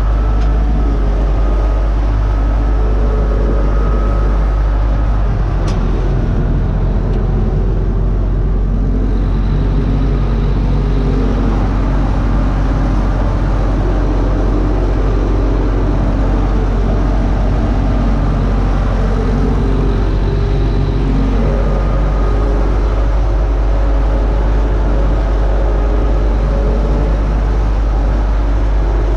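UTB Universal 650 tractor's four-cylinder diesel engine running steadily under load while pulling a disc harrow.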